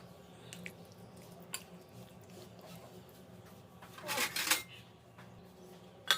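Kitchen handling noises: a few light clicks, then two short rustling bursts, one about four seconds in and one near the end, over a steady low hum.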